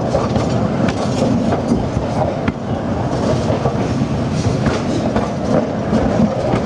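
Narrow-gauge passenger car rolling along the track: a steady rumble with wheels clacking over rail joints and a few sharp clicks.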